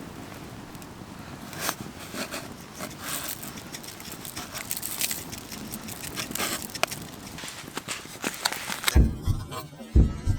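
Wood fire crackling and popping in a stainless steel fire pit: a steady hiss scattered with sharp clicks. Near the end come a few heavy low thuds.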